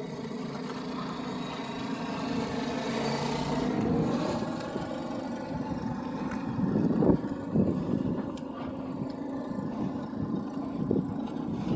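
A motor engine running with a steady hum that grows louder to a peak about four seconds in and then eases off, with a few short knocks later on.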